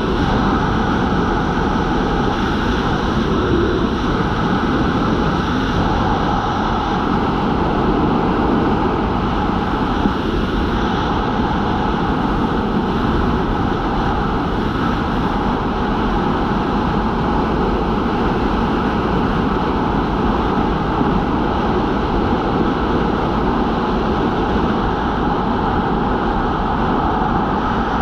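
Steady, unbroken drone of a skydiving jump plane's engines.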